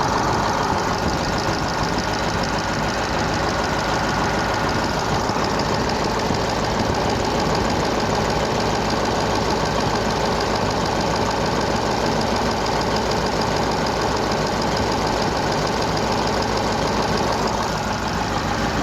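Kirovets K-700 tractor's diesel engine idling steadily.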